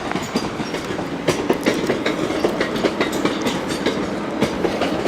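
Class 450 electric multiple-unit train moving slowly past, its wheels clicking over rail joints and points above a steady hum.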